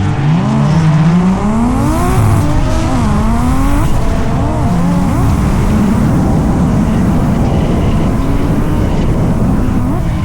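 Drift car engine revving up and down sharply in quick swings, with tyre noise that thickens into a dense, steady slide from about halfway through.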